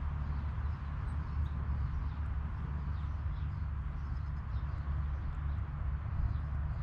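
A steady low rumble, with faint short calls from chickens scattered over it.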